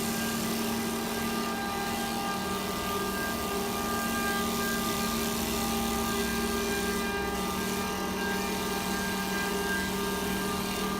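CNC wood lathe running: a steady machine whine of several tones over a hiss, the strongest tone dropping slightly in pitch about seven seconds in.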